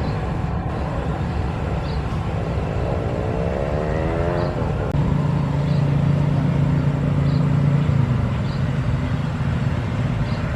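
Outdoor engine noise from vehicles running steadily. About three seconds in, a motor rises in pitch, and from about five seconds on a steady low engine hum joins in.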